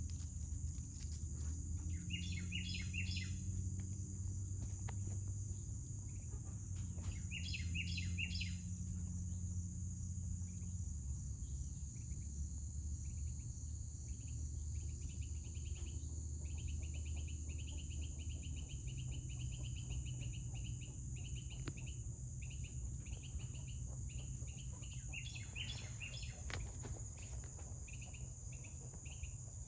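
Steady high-pitched drone of a summer insect chorus. Short bursts of bird chirps come three times, and a run of quick even pulses starts partway through. A low steady hum lies underneath.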